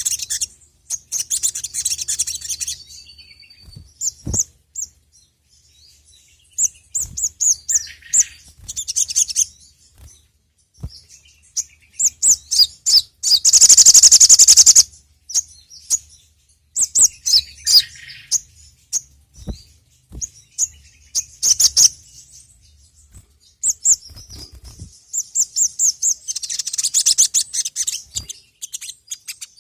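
Sogok ontong (sogon) sunbird singing in rapid, high twittering phrases separated by short pauses, with a louder, dense trill about halfway through and another burst of fast chirps near the end.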